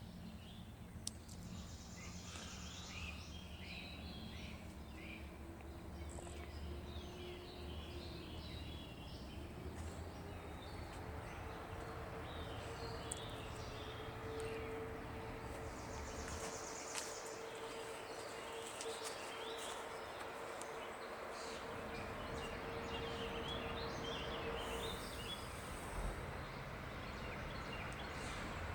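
Birds chirping over a distant, steady low rumble and a faint steady hum that slowly grows louder.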